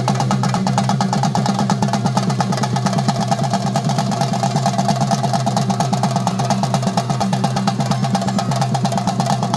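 Theyyam chenda drum ensemble (melam) playing a fast, continuous roll, with steady pitched tones sounding underneath.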